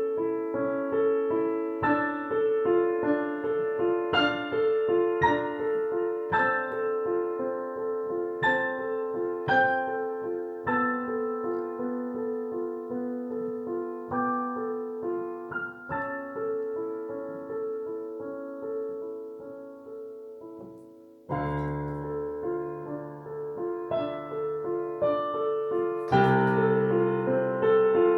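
Solo piano playing a flowing, repeating broken-chord figure in the middle register. It softens around twenty seconds in, then deep bass notes enter and the playing grows louder near the end.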